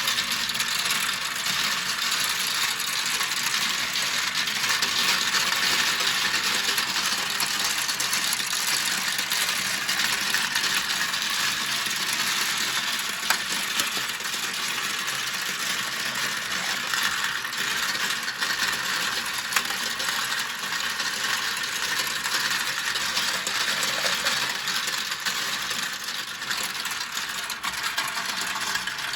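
Many marbles rolling and clattering down a plastic Kumikumi slope marble run, a steady dense rattle of small clicks with a few sharper single clicks.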